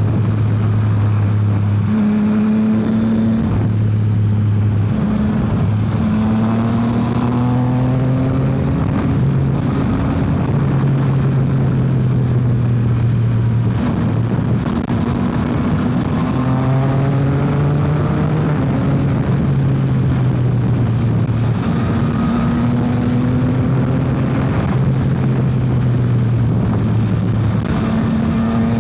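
Yamaha XSR900's inline-three engine under way, its note climbing through a run of gears with short breaks at each change, easing and picking up again several times, over a steady rush of wind and road noise.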